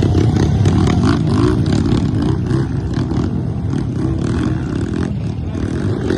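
Off-road motorcycle engine running and revving, its pitch rising and falling a few times early on, with some clatter.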